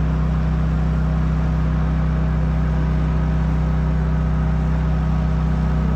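DJI Agras T50 spraying drone's rotors humming steadily in flight, a low, even drone with no change in pitch.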